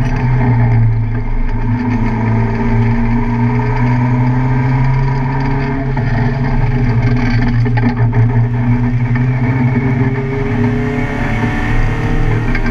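Car engine running hard and steadily, its note rising gently a couple of times, with road and wind noise.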